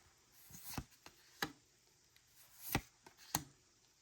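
Trading cards being handled as a freshly opened pack is gone through, with four sharp card taps and a light shuffle of cards between them.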